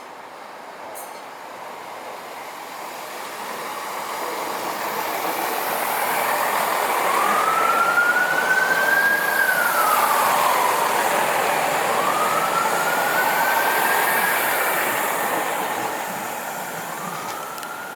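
A train passing close by, its rumble building to a peak about halfway through and then fading. Over it comes a high wheel squeal that rises and falls three times. The sound cuts off suddenly at the end.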